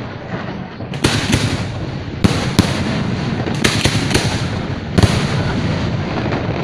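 Aerial fireworks display: a continuous rumble of bursting shells with sharp bangs, often two close together, about every second.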